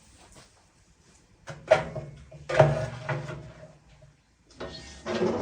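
Cookware being handled on a wood-burning stove: scraping and knocks, three times, as a pot is set on to cook.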